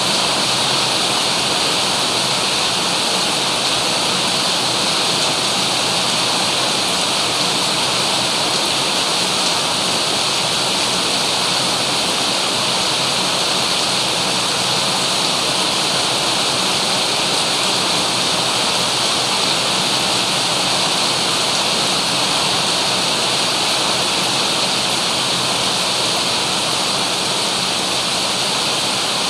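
Heavy rain falling in a steady, unbroken downpour, an even hiss with no thunder.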